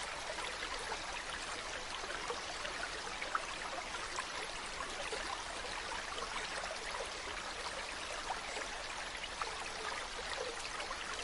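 A mountain stream running, a steady rush of water with many small splashes and trickles throughout.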